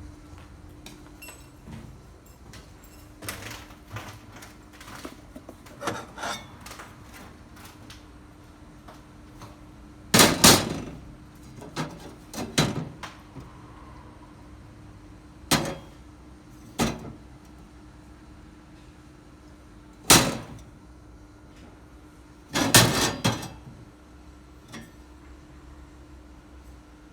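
Steady machine hum with a series of sharp knocks and clatters, a few seconds apart, in the second half.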